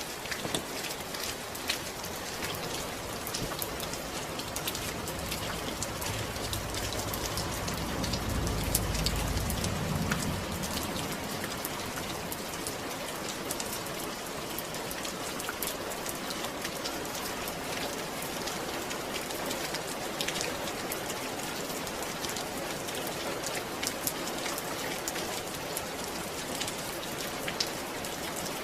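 Steady rain falling: a dense, even hiss dotted with sharp drop ticks. A low rumble swells and fades about a third of the way through.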